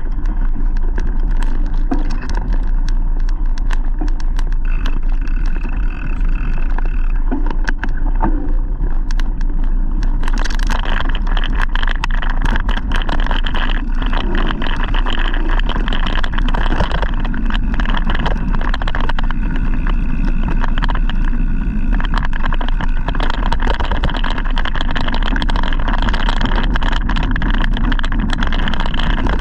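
Wind and road noise picked up while riding a bike: a constant low rumble of wind on the microphone with frequent small rattles and knocks. About ten seconds in the rushing hiss grows louder and brighter, as with more speed or a rougher surface.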